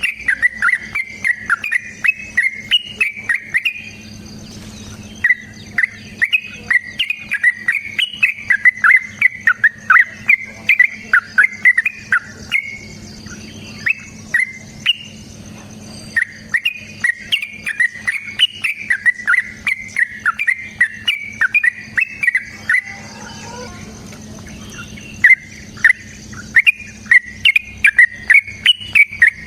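Yellow-vented bulbul (trucukan) singing long runs of rapid, chattering notes in four bursts with short pauses between them. A faint steady high insect trill runs underneath.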